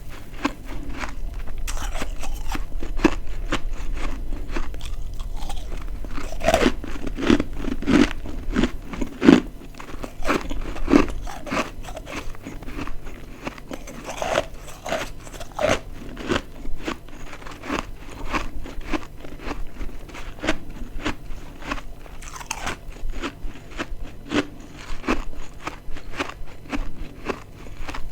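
Close-up biting and chewing of dry, crispy freezer-frost ice chunks: rapid crunching, with a run of louder bites in the middle.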